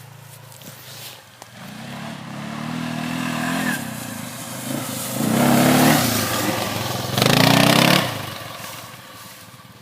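An off-road vehicle's engine revving up three times in succession, rising in pitch each time, the last two pulls the loudest. The sound then drops off and fades away.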